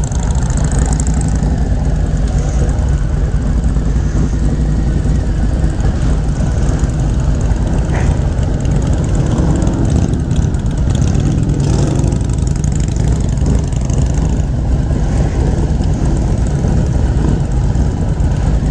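Motorcycle engine running steadily, with no change in speed.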